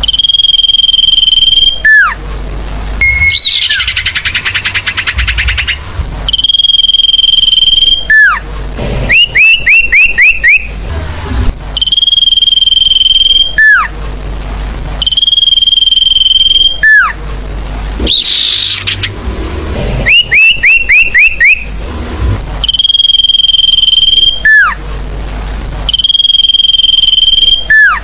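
Recorded song of the sirfu bird, played as a lure to call birds down. It repeats every few seconds: a long steady high whistle ending in a downward slide, alternating with quick runs of about five chirps and, twice, a harsh buzzy rasp.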